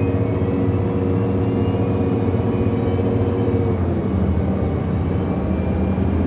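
A 2008 Orion VII NG diesel-electric hybrid bus running, heard from inside the cabin: a steady drone with several held low hum tones that drop away a little past halfway, and faint high electric whines climbing slowly in pitch.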